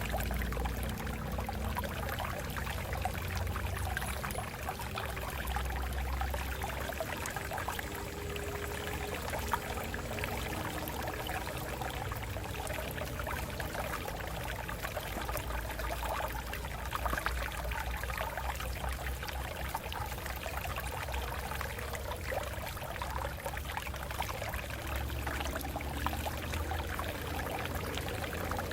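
Water flowing and splashing over rocks in a stream, a steady rush with a low rumble.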